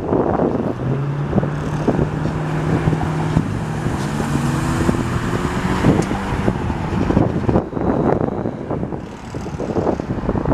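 Fire truck's diesel engine running and then revving up, its pitch rising from about three to six seconds in as the truck pulls away. Wind buffets the microphone throughout.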